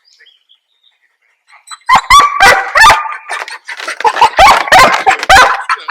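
Dog barking in a rapid run of loud, short barks and yelps, starting about two seconds in after a quiet start.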